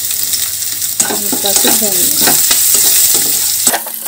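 Chopped garlic and ginger sizzling in hot oil with cumin seeds in a nonstick kadai, with a spatula stirring and scraping them around the pan from about a second in. The sizzle drops off abruptly near the end.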